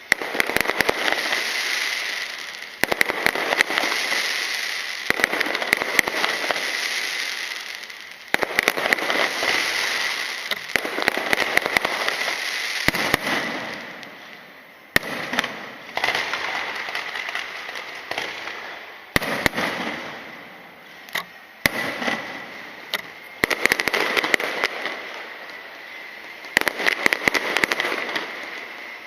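Aerial fireworks going off in waves of dense, rapid crackling, each wave lasting a few seconds and fading before the next begins.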